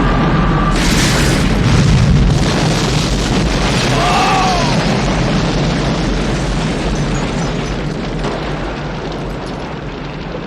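Film sound of a large explosion: a sharp blast about a second in over a continuous deep rumble that slowly fades.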